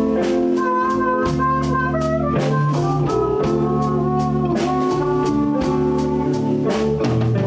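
Live blues band playing a slow blues in D, an instrumental passage between sung lines: a lead of held, bending notes over bass, guitar and a steady drum beat.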